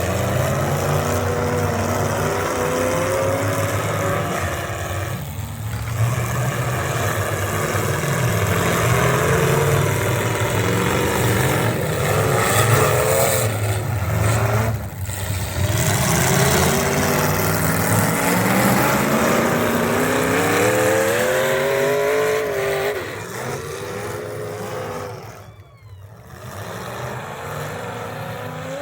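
Pulling truck's engine at high revs under load for about twenty seconds, its pitch wavering up and down. Near the end it drops away, cuts out briefly, then carries on more quietly.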